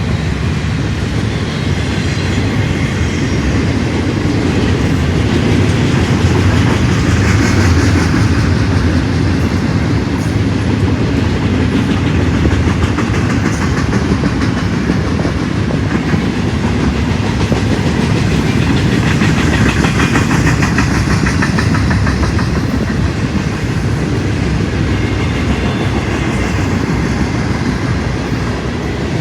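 Train cars rolling past at speed: a steady rumble of wheels on rail with a clickety-clack of wheels over the rail joints.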